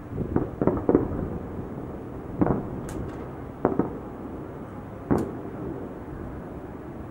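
Fireworks salute shells bursting: a quick cluster of booms in the first second, then three single bangs more than a second apart.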